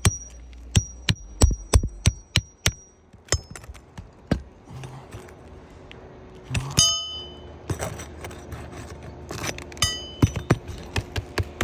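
Hammer striking a steel nail puller in quick repeated blows, each with a short metallic ring, to pull a roofing nail from under an asphalt shingle. A louder ringing clank comes about seven seconds in, and another burst of ringing strikes near the end.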